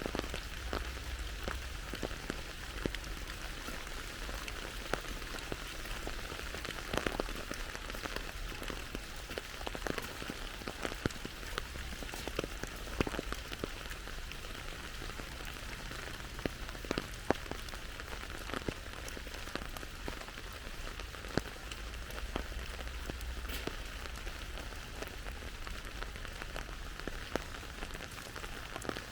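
Steady rain falling, a constant hiss with many individual drops ticking sharply close by.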